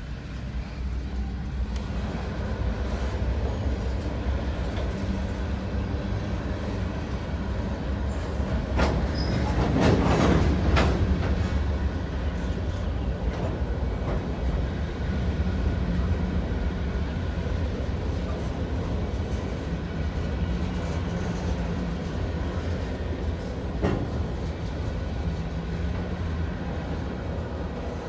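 Freight train of coal hopper cars rolling past: a steady low rumble of steel wheels on rail. About ten seconds in there is a louder burst of clattering, and a few seconds before the end a single sharp knock.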